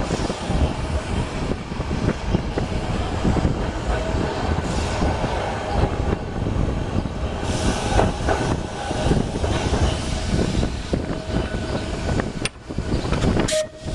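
Vintage electric tram running along its track: a steady rattling rumble from the wheels and body, with a faint steady whine. The sound drops out briefly twice near the end.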